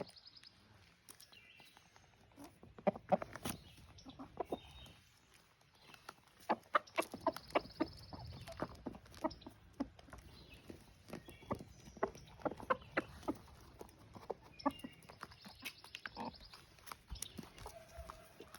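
Roosters clucking rapid food calls (tidbitting) to bring the hens to bread, in repeated runs of short, sharp clucks, among other chicken sounds.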